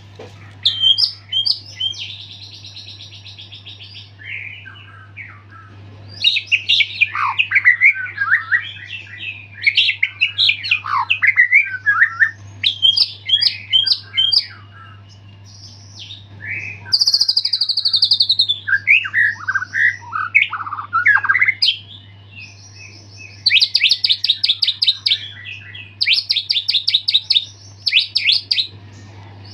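White-rumped shama (murai batu) singing in full voice: a varied song of whistled runs, fast trills and bursts of rapid repeated buzzy notes, broken by short pauses. The song is packed with mimicked calls of other birds (isian), the full song of a shama back in form after its molt.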